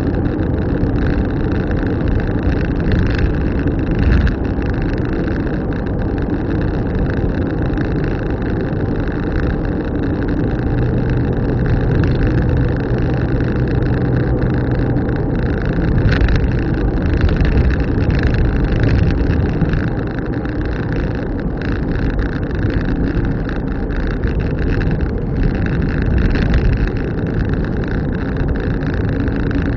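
A car driving along steadily: continuous engine and tyre noise, with a low hum for a few seconds in the middle and a few brief knocks.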